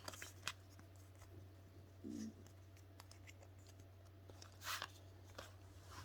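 Faint rustling and light clicks of Pokémon trading cards being handled and flipped through, over a steady low electrical hum.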